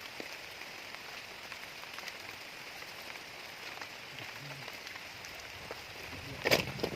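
Steady rain falling, an even hiss. About six and a half seconds in, a sudden loud noise cuts through it.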